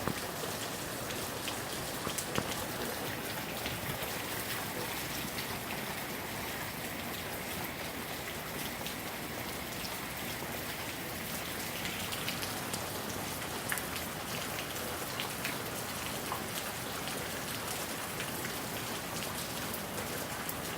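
Steady rain falling, with many individual drops tapping close by.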